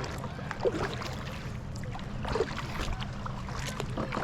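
Kayak paddling: the paddle dips and drips and water sloshes against the hull, with two louder splashes about two-thirds of a second and two and a half seconds in.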